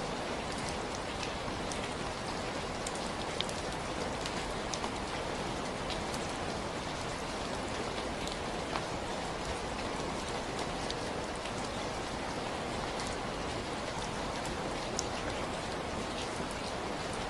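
Steady, even rainfall with scattered individual drops ticking on a surface.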